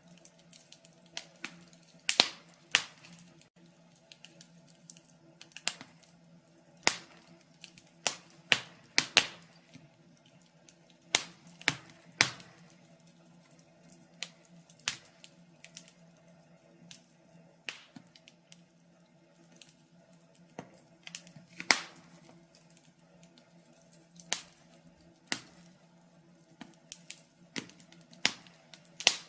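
Log fire crackling: irregular sharp pops and snaps from burning wood, a few every couple of seconds, over a faint steady hum.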